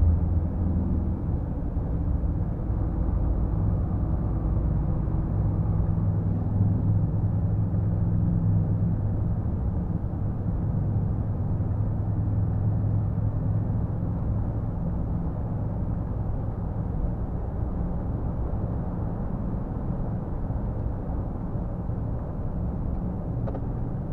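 Scania R450 truck's 13-litre inline-six diesel engine running steadily at highway cruise, a low drone with road noise.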